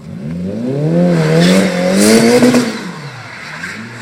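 Car engine revving hard while drifting and spinning its tyres. The engine note climbs and wavers with the throttle, drops about three seconds in, then climbs again near the end, with a tyre hiss at the loudest point.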